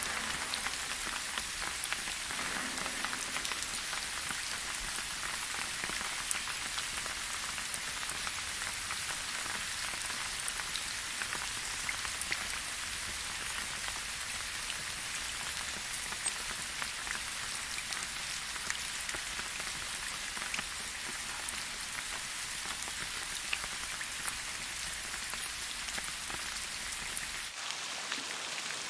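Light rain falling steadily, a dense patter of individual drops hitting a surface over an even hiss. A faint low rumble underneath drops away near the end.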